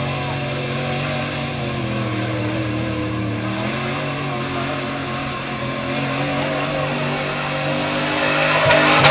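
Off-road truck engine running with its pitch wavering as the throttle changes, getting louder and revving up near the end.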